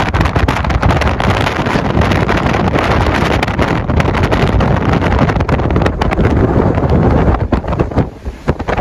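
Wind buffeting the microphone in a snowstorm: a loud, crackling rumble that drops away briefly near the end.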